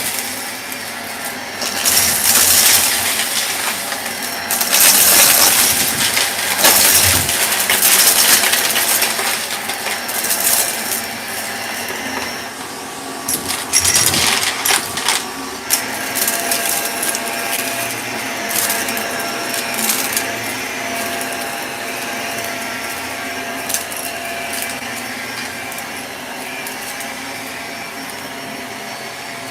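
Shark vacuum cleaner running with a steady hiss. In the first half it is broken by repeated surges of crackling and clinking as small bits rattle up the suction. After about 16 seconds it settles into a steadier run.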